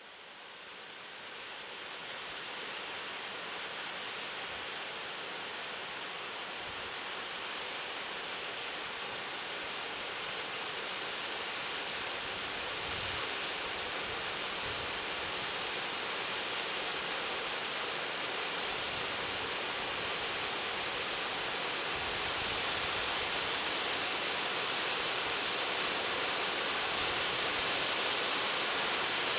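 Steady rushing of falling or running water. It fades in at the start and grows slowly louder.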